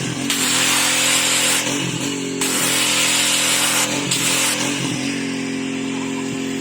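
DeWalt 3600 psi pressure washer's gasoline engine running steadily, with the hiss of the high-pressure spray starting and stopping several times as the trigger is pulled and released. The spray stops about five seconds in, leaving the engine running alone.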